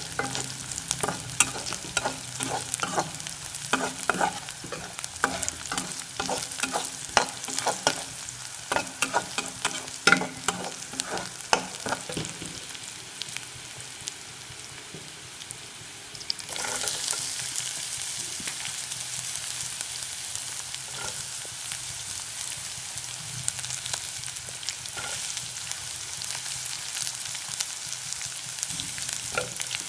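Onions and green chillies frying in hot oil in a pan, stirred with a spatula that clicks and scrapes against the pan over the first twelve seconds or so. About sixteen seconds in, the sizzle rises suddenly as chopped carrots and capsicum go into the oil, then carries on steadily.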